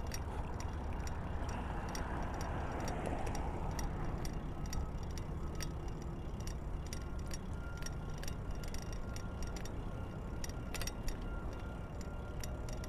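Wind buffeting the phone's microphone, a steady low rumble, with light ticks and clicks scattered through it.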